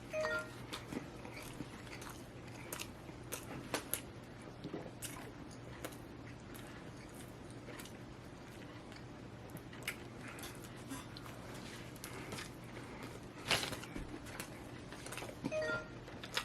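A person chewing and biting food close to the microphone: quiet mouth sounds with scattered short smacks and crunches, a few louder ones, over a steady low room hum.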